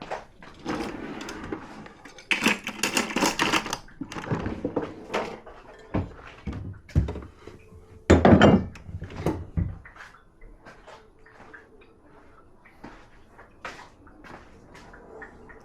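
Dishes and cutlery clinking and knocking as they are taken out of and put into a dishwasher. There is a run of dense clattering a few seconds in and a louder, fuller clatter about halfway through. After that come only scattered light clicks.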